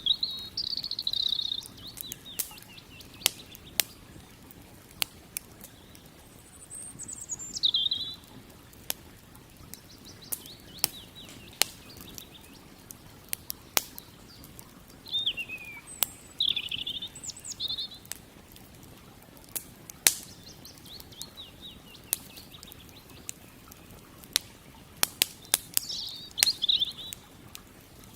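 Wood campfire crackling, with sharp pops scattered irregularly throughout, while a songbird sings short warbling phrases about four times, several seconds apart.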